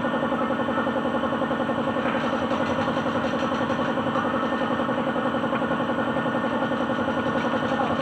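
Suzuki DA16 mini truck's engine running steadily with an even pulsing beat.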